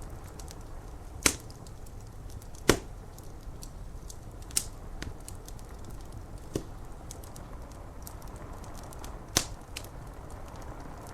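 Wood fire crackling, with five sharp pops standing out over a steady hiss of rain on window glass.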